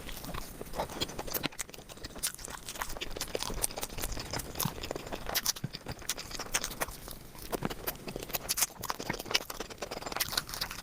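Close-miked eating sounds: a person chewing a mouthful of food, with many irregular wet mouth clicks and smacks.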